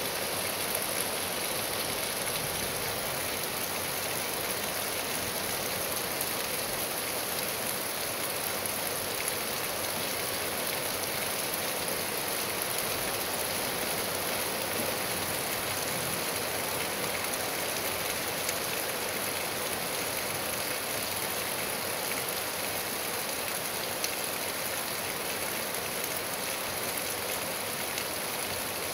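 Steady rain falling, an even hiss that neither swells nor fades, with a few faint ticks.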